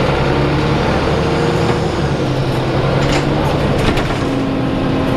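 DAF SB220 bus engine idling unevenly while stationary, its pitch wandering, with a few sharp knocks in the middle: the bad banging noise and rough idle of a faulty engine.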